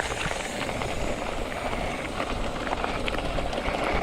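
Bicycle rolling down a dirt trail: a steady rushing, rumbling noise of tyres on the ground and wind on the microphone, with a few faint clicks and rattles.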